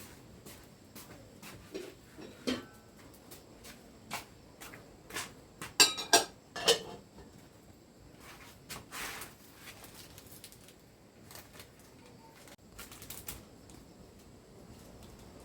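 Scattered clicks and knocks of objects being handled, with a short burst of sharp clattering about six seconds in.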